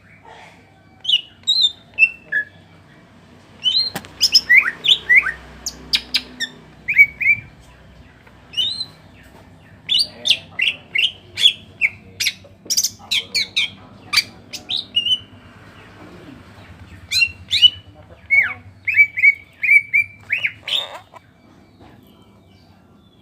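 Greater green leafbird (cucak ijo) singing in bursts of rapid, sharp notes and quick falling whistles, the fast 'ngentrok' song with 'tembakan' shots, delivered while the bird is in molt.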